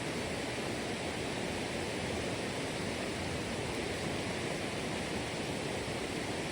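Steady rushing of flowing water, an even unbroken noise with no distinct events.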